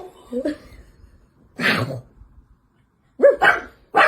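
A dog giving a few short barks, each one brief with pauses between.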